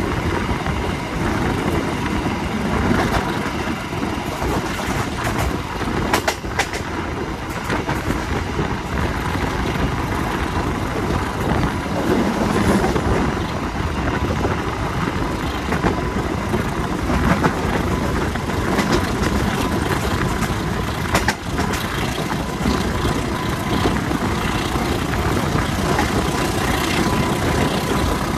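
Running noise of a diesel-hauled passenger train on the move: a steady rumble of wheels on the rails, with a few sharp knocks here and there.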